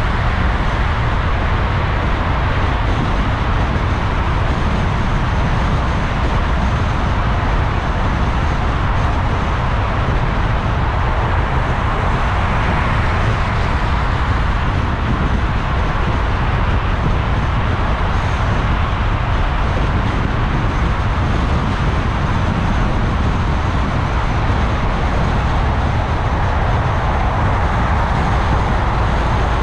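Steady road noise of a car driving in city traffic: low rumble and tyre hiss, even throughout, with no distinct events.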